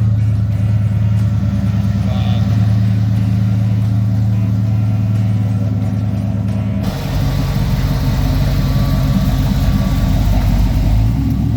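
A muscle car's engine running loud and steady at idle. About seven seconds in, the sound changes abruptly to a rougher, fuller note.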